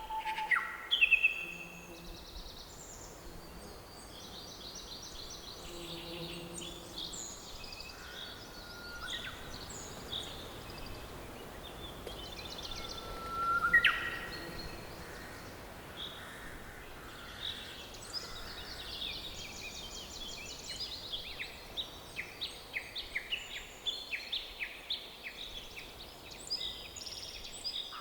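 Several songbirds singing and calling over a soft steady background hiss, with one loud rising whistle about fourteen seconds in and a long run of quick repeated chirps in the second half.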